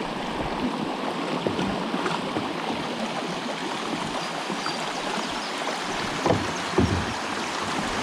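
Steady rush of shallow river water flowing, with two knocks about half a second apart near the end.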